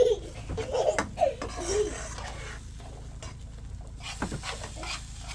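Metal tin cans clattering and knocking as they are handled, with a few sharp knocks near the start and one more about four seconds in.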